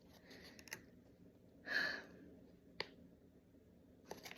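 Quiet room with faint paper handling: a brief soft rustle about two seconds in, then a single small click and a few more clicks near the end.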